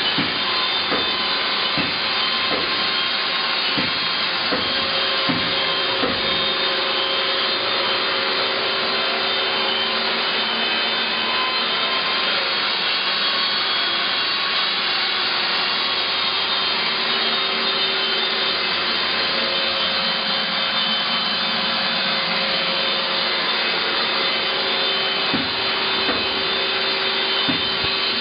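Haas ST20 CNC lathe running steadily, a continuous mechanical hum and whine with several steady tones. A few knocks sound near the start and again near the end.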